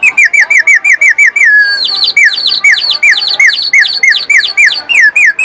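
Birdsong: rapid runs of short, high, downward-slurred chirps, about six a second, in two overlapping layers. Each run ends in a longer falling note.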